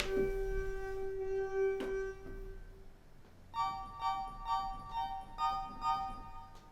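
Pitched notes played on a software sampler with reverb. A single held note rings and fades over the first few seconds, then a run of quick repeated notes starts about three and a half seconds in.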